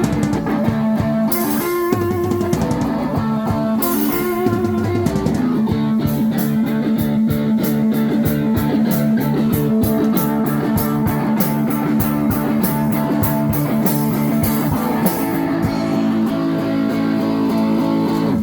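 Live rock band playing a song's outro: electric guitar and bass over drums, with cymbals struck in a steady beat through the middle. The music stops abruptly at the end.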